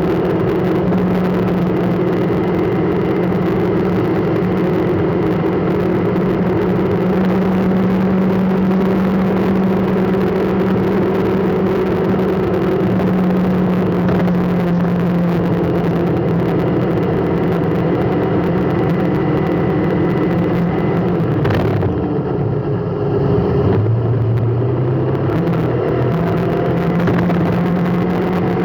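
A vehicle's engine running steadily with a continuous hum. A little over 20 seconds in the hum briefly drops lower in pitch and then climbs back.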